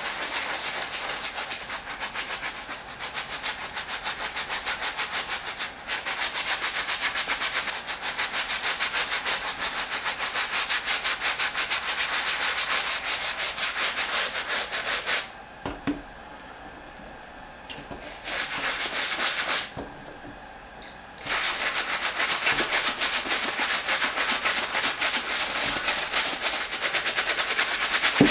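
Soft-bristle brush scrubbing a sneaker upper wet with shoe-cleaner solution: a rapid, continuous scratching of strokes. It pauses twice for a second or two past the middle.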